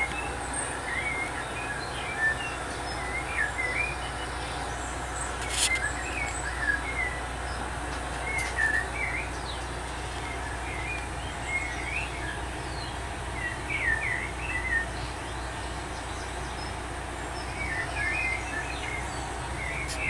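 Small birds chirping in short, quick twittering clusters over a steady background hiss and hum.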